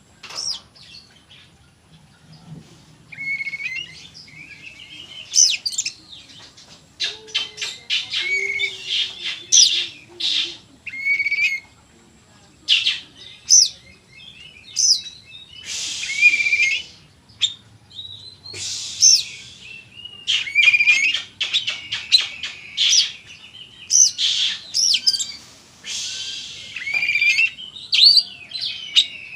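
Oriental magpie-robin (kacer) singing vigorously in the rapid 'konslet' style: a fast, unbroken stream of varied whistled phrases, sharp chip notes and harsh buzzy rasps following one another with barely a pause.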